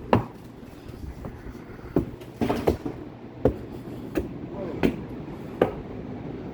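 Footsteps on a wooden deck: a run of hollow thuds, the later ones about one every 0.7 s, at walking pace.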